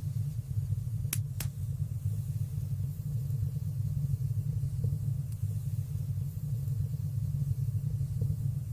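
Wood fire burning in a stone fireplace: a steady low rumble of flames, with two sharp crackles about a second in and a few fainter pops later.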